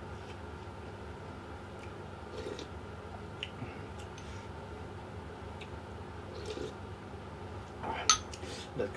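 Quiet eating sounds: soft squishy chewing with scattered small clicks, and one sharp click near the end.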